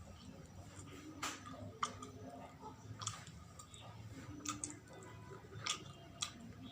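Close-up mouth sounds of someone chewing sawella, a sticky glutinous-rice, coconut and palm-sugar sweet, with irregular wet clicks about once a second.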